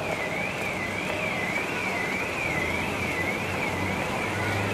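An electronic siren or alarm warbling, its pitch sweeping up and down about twice a second, over steady outdoor noise with a low hum.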